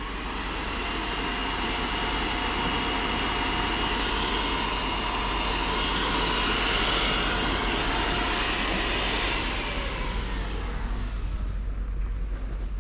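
A vehicle passing by: its sound builds, holds for several seconds with a steady whine through it, then fades away about ten seconds in.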